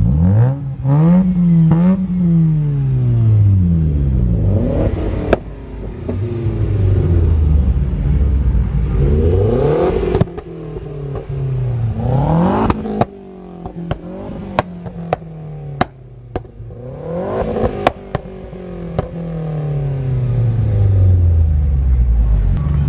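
Car engines revving, the pitch climbing and falling again several times. In the middle stretch there is a scattering of short, sharp pops between the revs.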